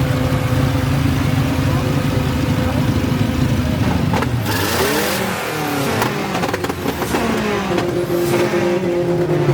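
Car engines running steadily, then revving from about four seconds in, their pitch sweeping up and down, with a brief hiss among the revs.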